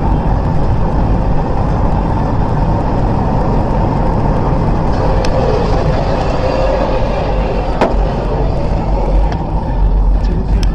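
A moving car's steady road and engine rumble, with one sharp click about eight seconds in.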